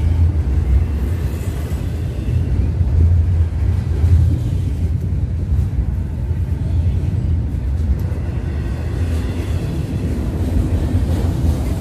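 Double-stack intermodal freight train of container-laden well cars rolling past close by: a steady, loud low rumble of steel wheels on the rails.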